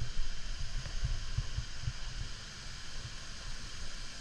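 Steady rush of a waterfall and its stream, broken by irregular low thumps on the microphone.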